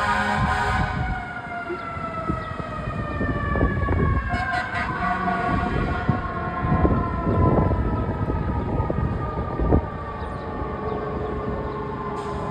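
Fire truck's mechanical siren winding down, its wail sliding slowly and steadily lower in pitch over several seconds, over the rumble of the apparatus's engine.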